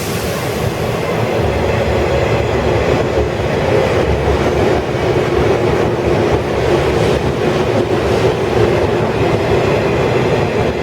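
Running noise of a 12-series passenger coach in motion, heard from inside: a steady rumble of wheels on rail with a low hum and a few faint clicks.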